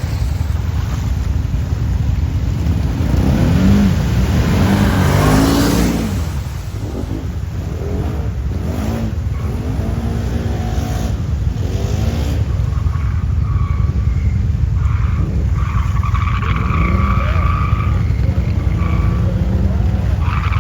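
Quad bike (ATV) engines revving over a steady low rumble, the engine pitch rising and falling repeatedly. From about the middle a steadier, higher engine whine comes in.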